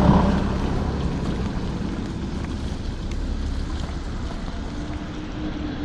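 Wind and tyre hiss from an electric scooter riding on a wet road, with a low rumble that fades away over the first second or so.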